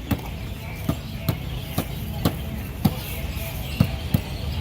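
Sharp knocks, irregular at about two a second, over the steady background din of a busy market.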